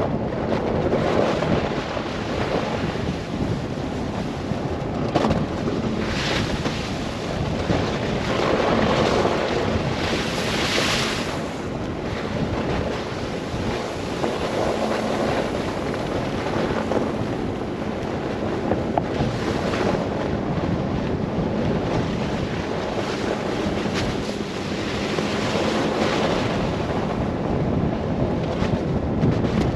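Blizzard wind rushing and buffeting, swelling and easing in gusts, over the steady low drone of the car driving through the snow.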